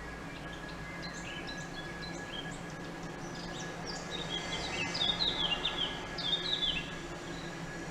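Small birds chirping in quick runs of short, falling notes over a steady outdoor background noise; the chirping is loudest and busiest from about halfway through to near the end.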